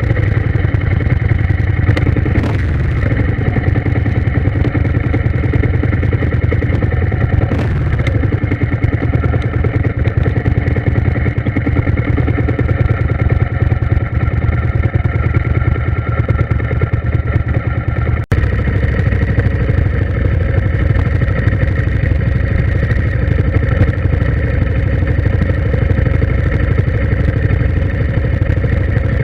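A vehicle engine running steadily, a constant drone with a few faint knocks early on and a momentary cut-out about eighteen seconds in.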